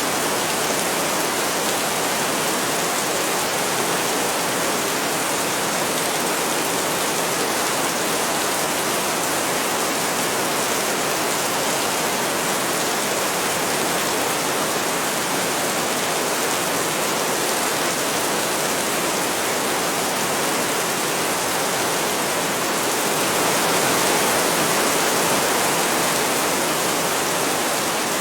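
Heavy rain falling steadily as a dense, even hiss, swelling a little louder for a few seconds about three quarters of the way through.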